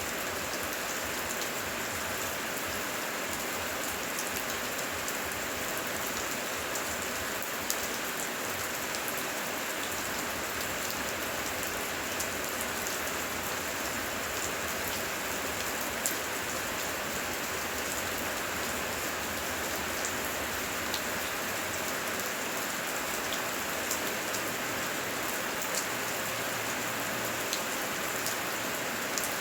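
Heavy rain falling steadily, a dense even hiss with scattered sharp drop hits.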